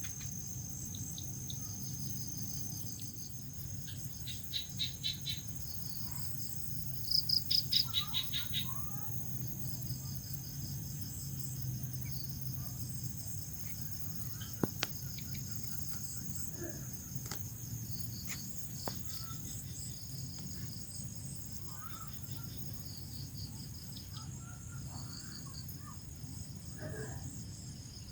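Crickets chirping: a continuous high trill, with louder runs of rapid pulsed chirps about 4 s and 7 to 8 s in. A low steady background rumble lies underneath.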